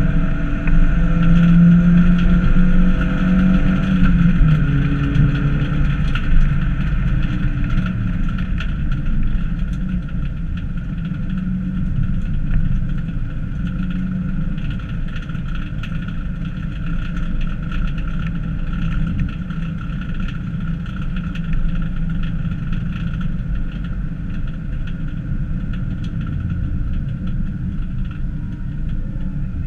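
Fiat Cinquecento hillclimb car's engine heard inside its stripped cabin, revving hard with shifting pitch for the first several seconds. It then settles to lower, steadier revs as the car eases off after the finish of the run.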